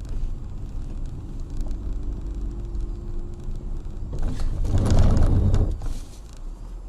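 Car driving noise as picked up by a dashcam: steady road and engine noise, with a louder rush of noise for about a second and a half around four seconds in.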